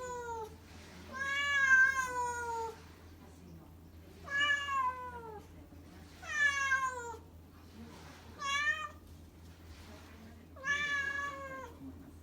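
Domestic cat meowing repeatedly: five long, drawn-out meows a second or two apart, each sliding down in pitch at the end. The cat is asking to be let through a door.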